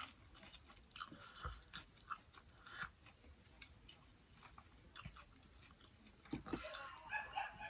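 Faint, close-miked chewing of fried chicken, with scattered short wet mouth clicks and smacks. There is a denser run of mouth noise near the end.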